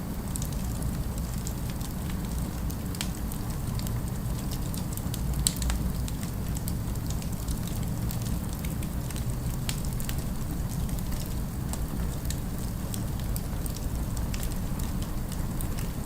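Fireplace fire crackling: a steady low rumble with many scattered snaps and pops, one louder crack about five and a half seconds in.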